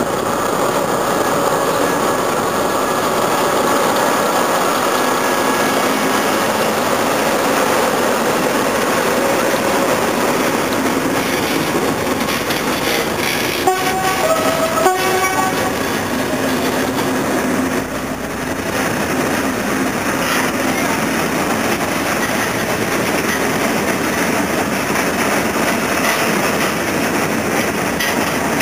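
Train running slowly past at close range, hauled by SNCF BB 69400 diesel-electric locomotives: the locomotives' diesel engines run as they go by, then a coach and loaded flat wagons roll past with wheels clattering on the rails. A brief set of high tones that change pitch sounds about halfway through.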